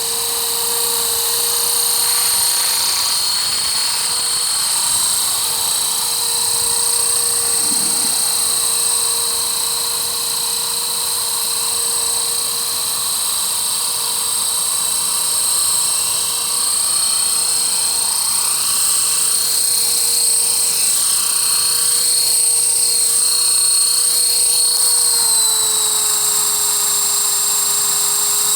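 E-Flite Blade CP Pro electric collective-pitch RC helicopter in flight: a steady high-pitched whine from its motor and rotor. The pitch dips slightly near the end and then recovers.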